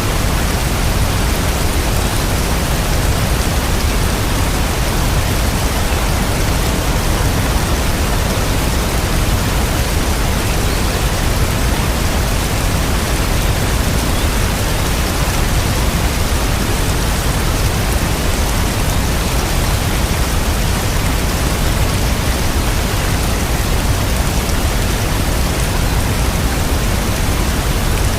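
Steady rain, an even hiss that holds the same level throughout, with no separate drops or thunder standing out.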